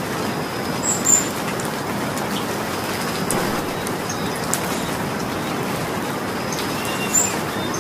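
Steady rain falling, an even hiss of many drops. A few short high-pitched chirps stand out briefly, about a second in and again near the end.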